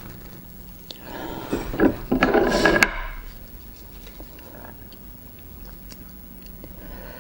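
A person eating raw oyster close to the microphone. A loud burst of mouth and eating sounds comes from about one to three seconds in, followed by quieter chewing with small scattered clicks.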